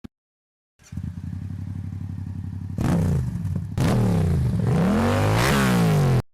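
Suzuki GSX-R 750 inline-four motorcycle engine running steadily, then revved so its pitch swings up and down, louder from about four seconds in, before the sound cuts off suddenly near the end.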